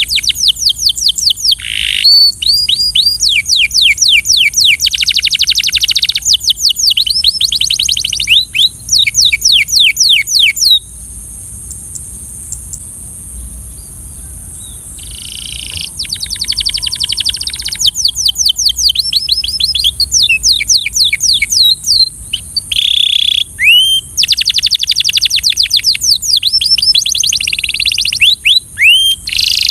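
Belgian canary singing: long runs of rapid, repeated whistled notes in rolling trills. It breaks off for a few seconds about eleven seconds in, then starts again.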